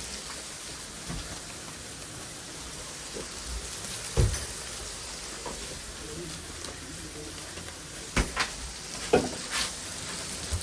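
Burger patties sizzling as they fry, a steady hiss. Sharp knocks of a utensil on metal come about four, eight and nine seconds in.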